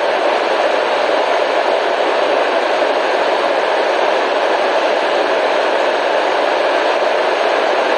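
Steady white-noise hiss, even and unchanging throughout, with most of its energy in the middle range and little deep rumble.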